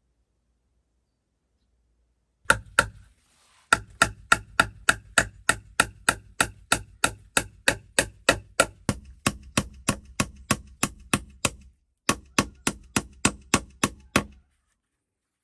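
Repeated sharp strikes on wood at an even pace of about three a second. Two single strikes come first, then a long steady run, a brief break, and a shorter run.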